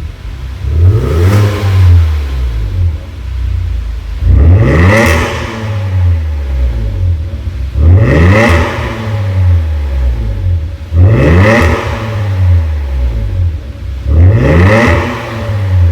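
Exhaust note of a Hyundai Grandeur HG LPI's LPG V6 through a custom exhaust with a JSR variable exhaust valve, revved about five times at roughly three-second intervals, each rev rising sharply and then dropping back to idle.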